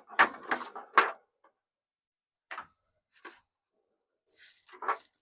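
Black pepper shaken from a shaker onto a chuck roast: a quick run of three or four sharp shakes in the first second, then a few scattered taps and rattles.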